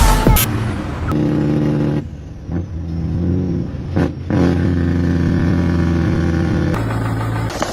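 An engine running steadily, its note shifting a few times, after a short loud noisy burst at the start.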